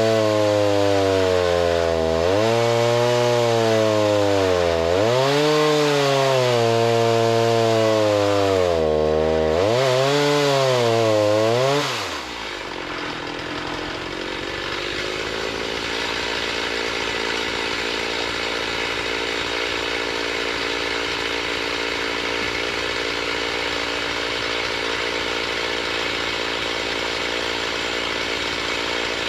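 Small gas engine of a saw milling lumber, working under load with its pitch sagging and recovering in repeated waves. About 12 seconds in it drops back to a steady lower running speed.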